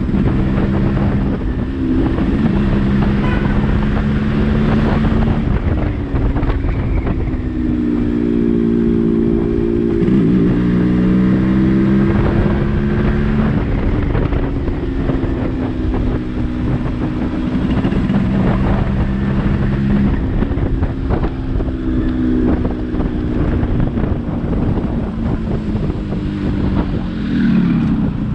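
Yamaha RX-135 two-stroke single-cylinder motorcycle engine running on the move. Its note holds steady for a few seconds at a time, then climbs or drops several times as the revs change, with a sweeping fall near the end.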